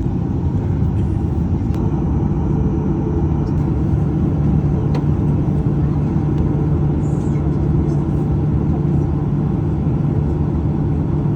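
Steady low rumble of a Boeing 737-800's CFM56 engines and airframe, heard from inside the passenger cabin while the jet is on the ground before its takeoff roll.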